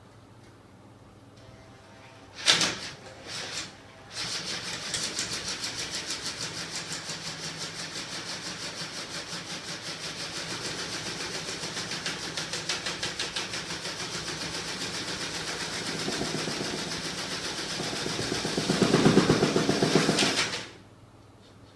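A small prototype magnet engine: two sharp clicks, then the machine runs with a rapid, even pulsing rattle for about sixteen seconds, grows louder near the end, and stops abruptly.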